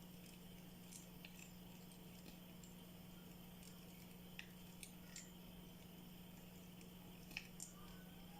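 Near silence: a steady low hum with a few faint, scattered ticks.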